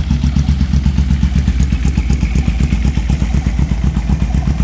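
1985 Yamaha V-Max's V4 engine idling cold with a steady, pulsing beat, firing on only one cylinder because of a bad CDI.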